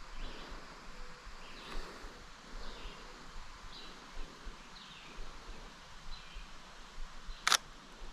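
A single click of a Sony A7iii camera's shutter taking a photo, near the end. Faint high chirps repeat about once a second over a low outdoor background.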